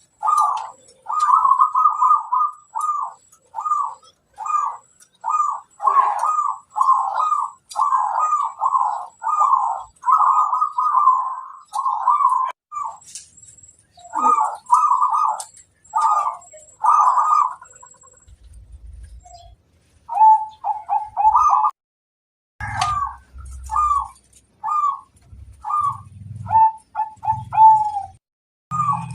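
Zebra dove (perkutut) singing: long runs of short, rhythmic cooing notes, about two a second, breaking off briefly about two-thirds of the way through and then resuming. Faint high chirps sound above it.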